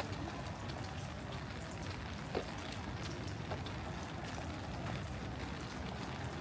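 Steady rain with scattered drops ticking, over a low rumble.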